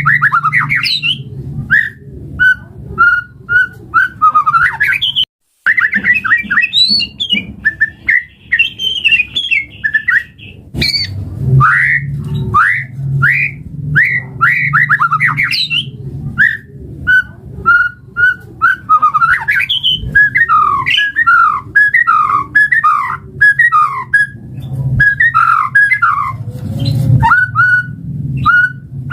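White-rumped shama (murai batu) singing a long, varied song of quick whistled notes, up- and down-sweeping phrases and chattering runs, with a steady low hum underneath. The sound cuts out briefly about five seconds in.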